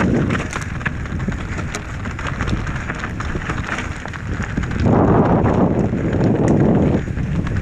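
Transition Sentinel V2 mountain bike ridden over a rough, rocky trail: tyres crunching over stones, with the bike clattering and rattling. Wind buffets the microphone, growing louder for about two seconds past the middle.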